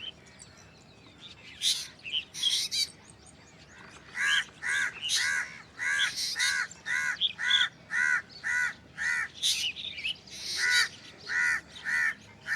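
Black drongo calling: after a few high, sharp notes, a long run of harsh repeated notes at about two a second begins about four seconds in, with shrill higher notes mixed in.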